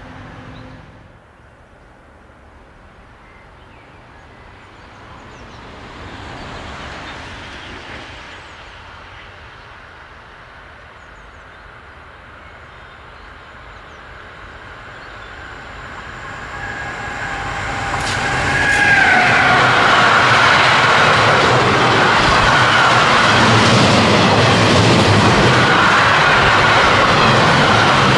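DB class 152 electric locomotive hauling a car-transporter freight train, approaching and passing close by. The rumble grows from faint to loud, with a whine falling in pitch as the locomotive goes by. Then comes the steady, loud rolling noise of the wagons passing.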